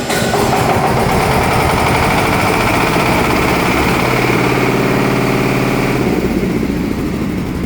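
Diesel engine of a building fire pump running steadily just after starting, the pump churning against its shut discharge valve. It is running normally on its newly replaced battery.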